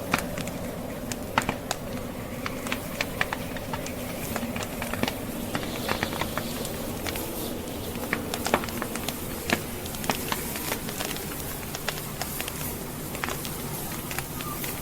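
Logs burning in a fireplace, crackling with many irregular sharp pops, over a steady low rush of snowstorm wind.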